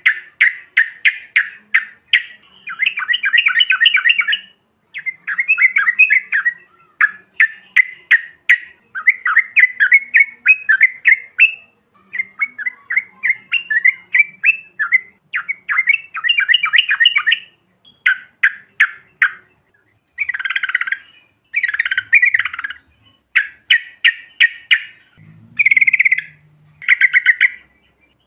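Yellow-vented bulbul (trucukan) singing a long run of rapid, chattering phrases, each lasting a second or two, with short breaks between them that lengthen slightly near the end.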